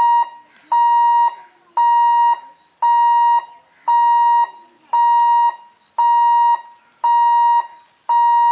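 Level crossing warning alarm beeping: a loud, even electronic tone repeating about once a second, each beep lasting a little over half a second. It signals that the gate is closing for an approaching train.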